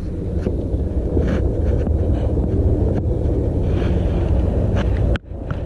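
Wind buffeting the microphone in a steady low rumble, with a few faint taps; it cuts out abruptly about five seconds in.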